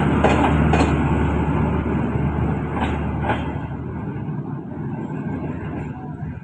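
Passenger train's last coaches rolling past on the track, a steady rumble that fades away as the tail of the train leaves. Two pairs of sharp wheel clicks come about half a second apart within each pair, one pair near the start and one about three seconds in.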